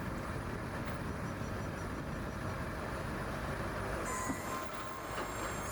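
Steady low rumble of heavy machinery or an engine running, with faint thin high whining tones coming in about four seconds in.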